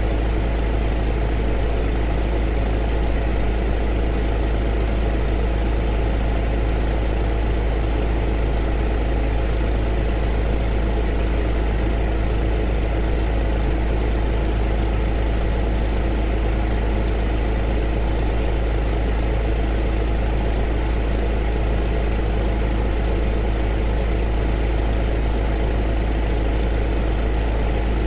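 Heater running: a steady, unchanging rushing noise over a strong deep hum, with a few faint steady tones.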